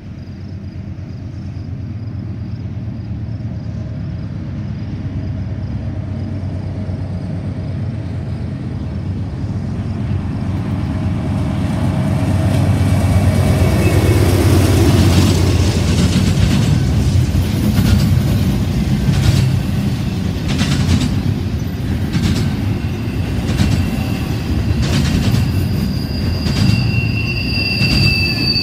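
Double-stack intermodal freight train led by a GE C44-9W (Dash 9) diesel locomotive approaching and passing. The locomotives' low diesel drone builds to a peak about halfway through as they go by. The stack cars follow with a rhythmic clatter of wheels over rail joints, and a high steady wheel squeal comes near the end.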